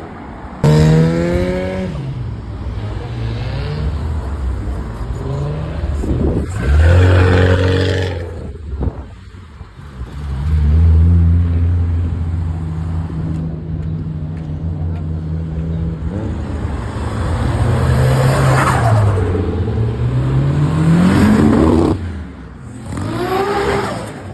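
Modified cars revving and driving past one after another, engine pitch climbing and dropping with each blip and pull-away, with a steadier engine note in the middle.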